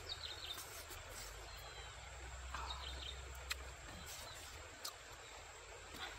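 A bird calls with a short chirping phrase twice over faint outdoor background noise. Two sharp clicks come from chewing cooked fish, the first about halfway through.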